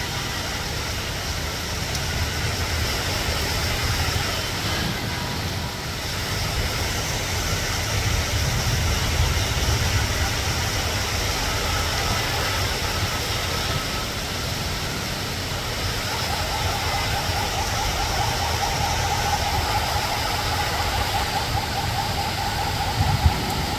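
Steady noise of heavy rain with a deep rumble underneath. A faint wavering tone comes in about two-thirds of the way through, and a single sharp knock sounds just before the end.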